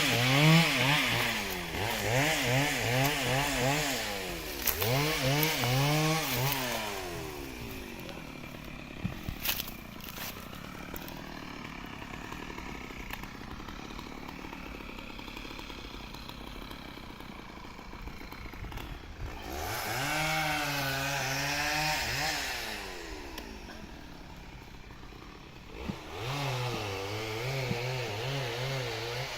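Stihl two-stroke chainsaw revving hard in long bursts, its pitch wavering under load, dropping back to a lower idle between bursts. There are three bursts: one at the start lasting several seconds, one about two-thirds of the way in, and one near the end.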